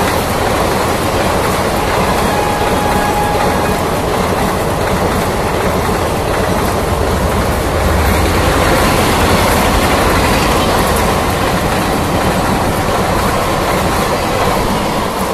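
Passenger train coaches passing at speed close by, with a steady loud rush of wheel and rail noise.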